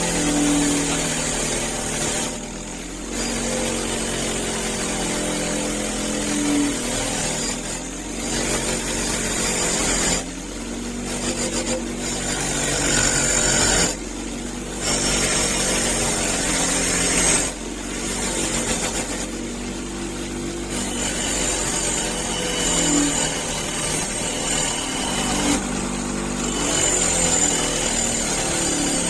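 A power tool working against metal, taking the rust off a wrench, with the pitch of its motor shifting under load. It runs in several stretches broken by short pauses.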